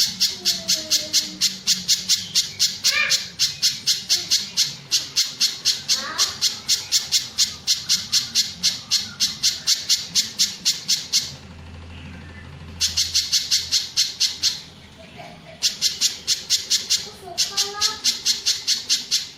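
Pijantung gunung (a mountain spiderhunter) calling: a fast, even string of sharp high notes, about six a second. There is one long run, then three shorter runs after a brief pause. Fainter, lower sliding calls sound underneath.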